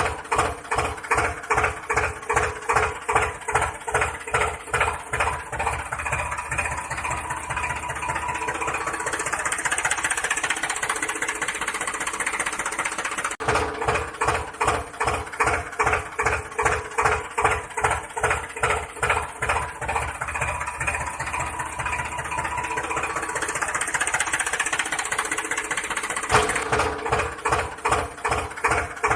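Tractor engine chugging with a steady knock of about two to three beats a second. Twice the beats run together into a smoother, faster run before falling back to the slow chug.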